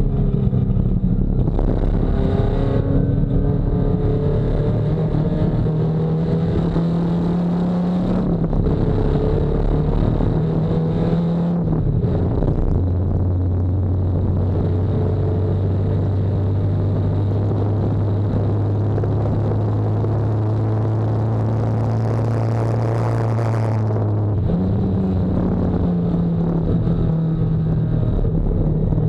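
Nissan 240SX race car's engine running hard under racing load, heard onboard. Its note climbs and steps down twice in the first half, holds at a steady lower pitch through the middle, then jumps back up near the end.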